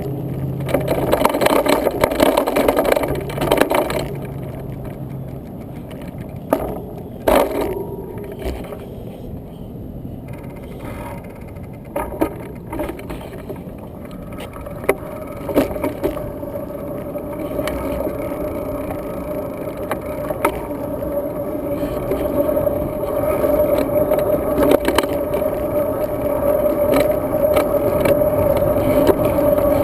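Riding a road bike: steady wind and tyre noise with scattered knocks and rattles from bumps, and a steady hum that grows louder through the second half.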